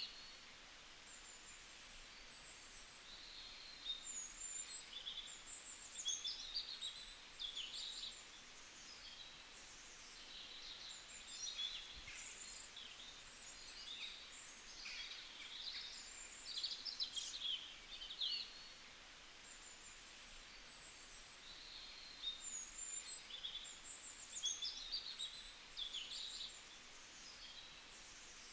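Wild songbirds chirping and singing in quick, high runs of notes that come in bunches with short lulls between, over a faint steady hiss of forest ambience.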